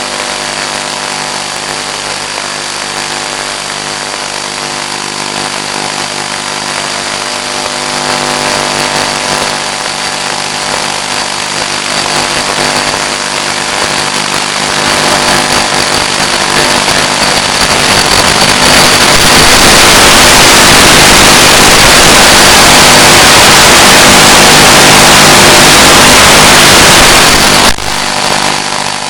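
Finwing Penguin FPV plane's electric motor and propeller running with a steady hum, under a hiss that grows over the second half until it is loud and distorted, then drops off suddenly near the end.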